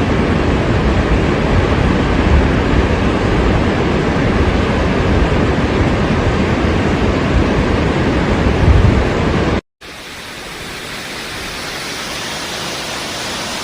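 Waterfall: a steady rush of falling water. It cuts off abruptly about ten seconds in, then returns quieter and slowly grows louder.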